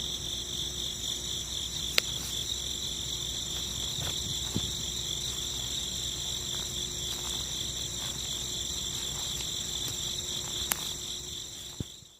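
Steady outdoor insect chorus of crickets, a high pulsing trill with fainter, higher steady tones above it. A sharp click about two seconds in.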